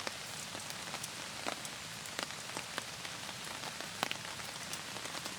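Steady rain, with scattered sharp ticks at irregular intervals.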